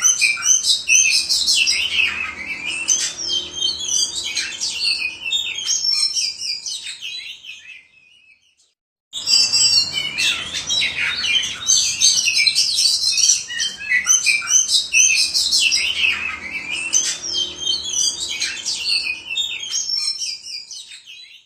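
Oriental magpie-robin singing a rapid, varied song of chirps and whistles. The song dies away about eight seconds in, breaks off for about a second, starts again abruptly and fades out near the end.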